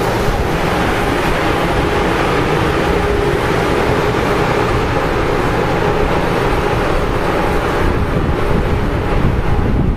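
Amtrak Acela Express electric trainset pulling away from the platform: a steady rumble with a faint electric hum, mixed with wind on the microphone.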